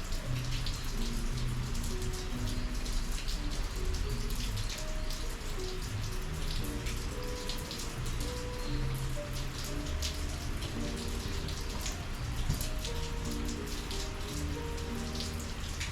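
Steady rain with many close raindrops tapping sharply over the hiss, and soft music with short low held notes underneath.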